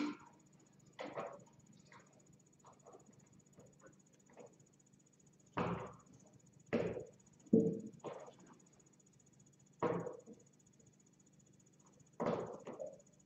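Kittens scampering and pouncing: about seven short, irregular thumps and scuffles of paws on the floor. Under them runs a faint steady high-pitched whine.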